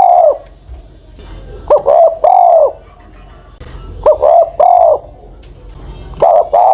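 An old decoy spotted dove cooing close up. Its phrase of a couple of short coos and a longer drawn-out final coo repeats about every two seconds.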